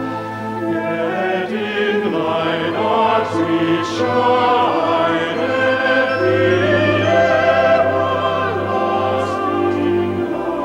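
Choir singing with orchestral accompaniment, several voices moving over sustained low chords.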